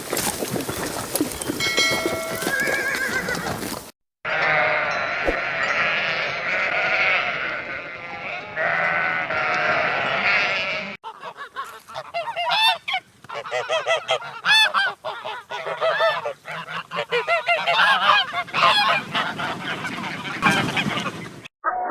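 Back-to-back recordings of farm animals calling, cut together with abrupt edits about 4 and 11 seconds in. The middle stretch is a dense flock calling over one another; the last stretch is a run of quick separate calls from domestic fowl.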